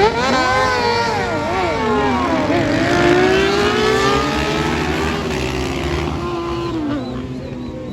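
Racing motorcycles passing at speed on a circuit. Several engine notes climb sharply as the bikes come by, waver and slide in pitch as they shift and pass, then settle lower and a little quieter about seven seconds in.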